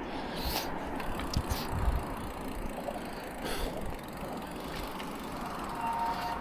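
Bicycle ride heard from the bike: steady rolling noise of tyres and rushing air, with a few light clicks and rattles. A faint steady high tone comes in near the end.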